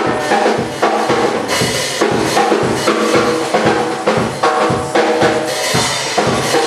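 Live gospel worship band playing without voices: a drum-kit beat with percussion over sustained keyboard and bass notes.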